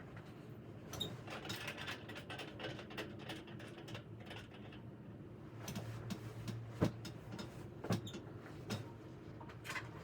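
Scattered small clicks, knocks and rustles of objects being handled in a small room, with a couple of sharper knocks about two-thirds of the way through.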